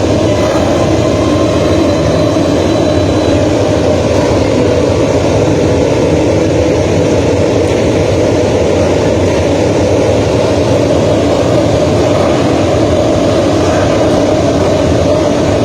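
Many Grand Prix racing motorcycle engines running together, a loud, steady din with no single bike standing out.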